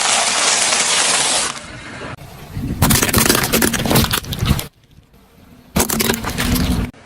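Car tyres crushing objects: a steady rush of noise at first, then dense crunching and cracking in two short bursts, each starting and stopping abruptly.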